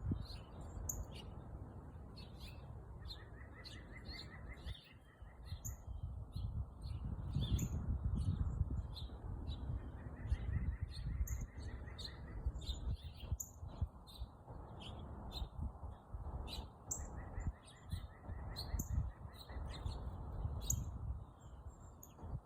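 Several small birds chirping, with short high calls coming many times a second and a rapid trill three times, over a low rumble.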